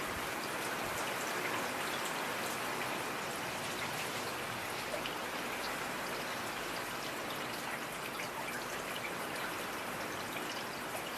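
Steady rain falling, a constant patter with scattered single drops ticking through it.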